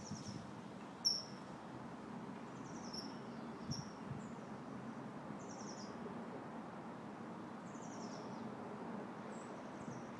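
Steady outdoor wind-and-leaf hiss, with a small bird giving short, high chirps about half a dozen times, the loudest about a second in.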